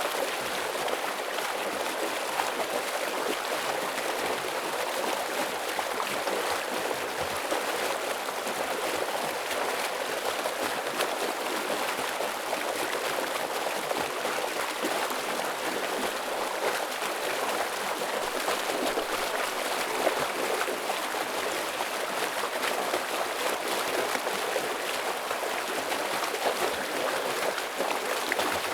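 Heavy stream water flowing and splashing over rocks, steady and continuous.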